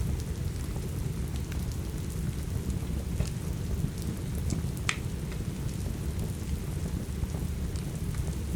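Steady rain with a wood fire crackling over it: a dense low rushing with scattered sharp pops, one louder pop about five seconds in.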